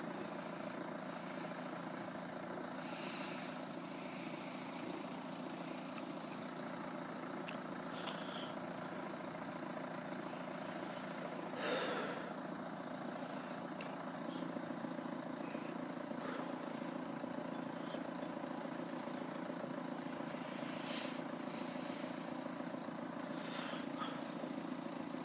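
Steady low engine hum, as of a motor idling, holding an even pitch throughout, with a brief louder sound about twelve seconds in.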